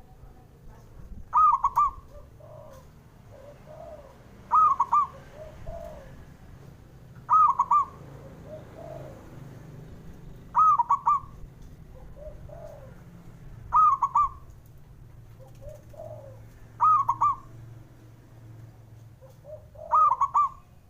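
Perkutut (zebra dove) singing its cooing song: seven loud, short, rolling phrases about every three seconds, with softer, lower coos between them.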